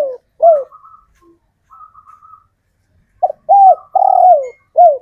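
Male spotted dove cooing: the end of one phrase at the start, then after a pause a full phrase of four coos, a short note, two longer arched coos and a falling final coo. Faint, higher fluttering notes sound in the pause.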